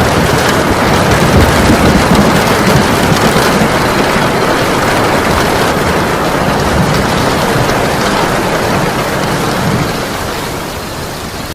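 Heavy rain pouring down in a dense, steady hiss, fading out near the end.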